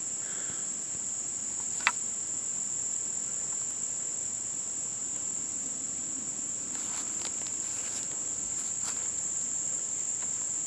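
Steady, high-pitched insect chorus of crickets, with a single sharp click about two seconds in.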